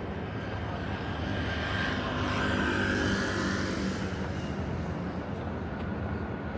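A vehicle passing by, swelling to a peak with a faint whine and fading away over a few seconds, over a steady low hum of city traffic.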